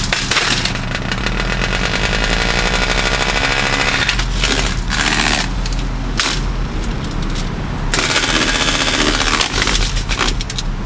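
Holmes HBF2002A box fan running while its blades strike something continuously, making a loud, rapid, steady clatter.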